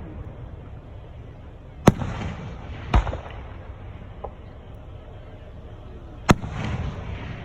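Aerial fireworks shells bursting: three sharp bangs, about two, three and six seconds in, each trailing off in a rumbling echo, with a smaller pop between them.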